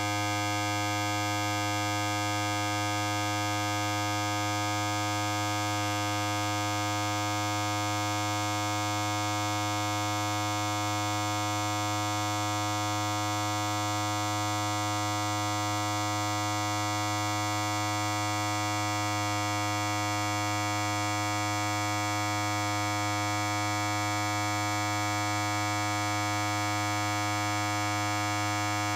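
Electric hair clipper running steadily: a constant buzz with a strong low hum and many overtones, unchanging throughout.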